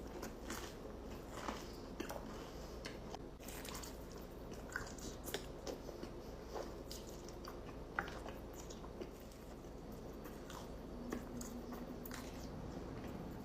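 Pizza being bitten and chewed close to the microphone: irregular crunches and wet chewing noises from the crust and cheese.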